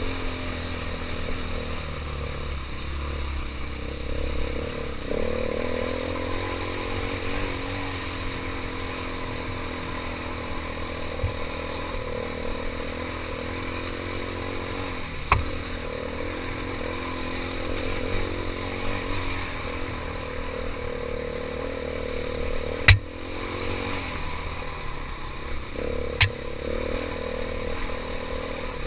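KTM 500 EXC dirt bike's single-cylinder four-stroke engine running, its pitch rising and falling with the throttle. Three sharp knocks cut through, one about halfway and two late on, the first of those two the loudest.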